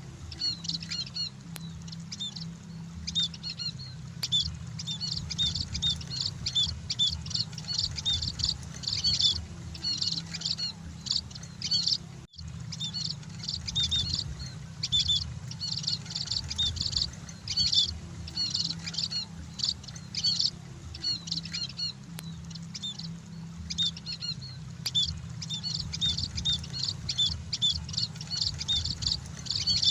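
A flock of munias (emprit) chirping continuously in quick, high, overlapping chirps over a steady low hum, with a brief break in the sound about twelve seconds in.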